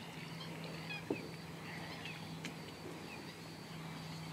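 Quiet marsh ambience: faint, short chirps of distant birds over a steady low hum, with a light knock about a second in.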